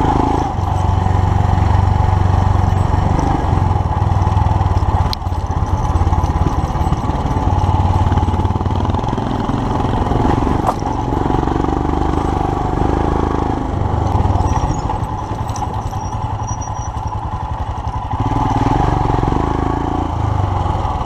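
Royal Enfield Himalayan's 411 cc single-cylinder engine running under way as the motorcycle rides a dirt road, its pitch rising and falling with the throttle. Two short sharp clicks come about five and eleven seconds in.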